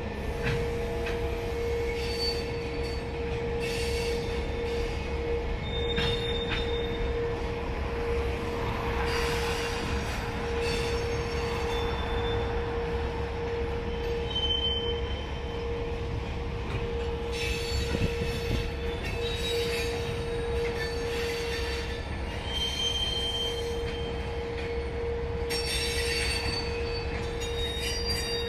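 Rack cars of an empty welded-rail train rolling past: a steady rumble of wheels on rail with an unbroken squeal and, now and then, higher-pitched squeals on top.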